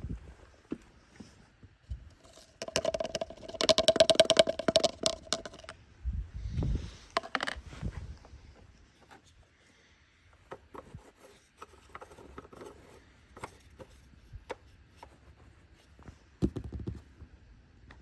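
Mechanic's work noises: a rapid, even run of clicks with a steady tone under it for about three seconds, then a couple of dull thuds and scattered light knocks and clatter of tools and parts being handled.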